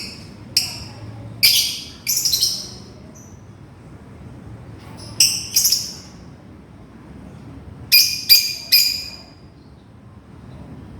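A lovebird calling to its companion with short, shrill calls in three bunches: a run of about five at the start, a pair a few seconds later, then three quick calls about eight seconds in.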